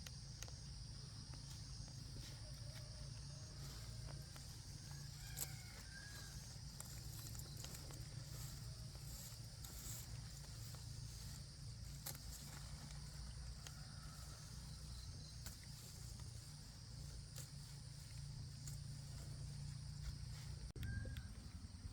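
Faint outdoor rural ambience: a steady high-pitched drone and a low rumble, with a few short, faint bird calls, about five seconds in and again near the end.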